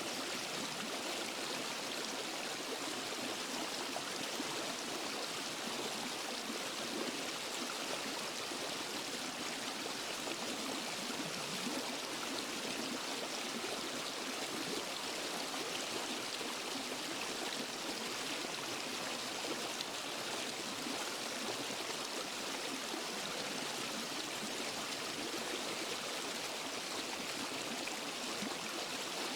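Steady rush of a waterfall and forest stream, water pouring and splashing over rocks in an even, unbroken hiss.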